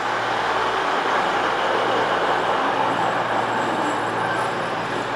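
Class 222 Meridian diesel multiple unit running through the station with a steady rumble and a low engine hum.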